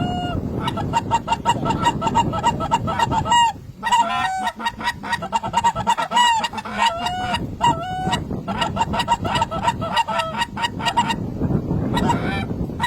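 A large flock of geese calling overhead, with many short honks overlapping in a continuous clamour and a brief lull about four seconds in.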